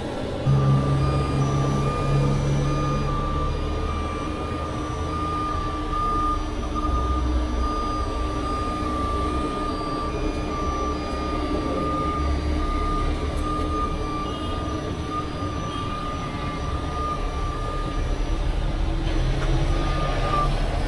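Truck backup alarm beeping steadily over a running truck engine, stopping just before the end.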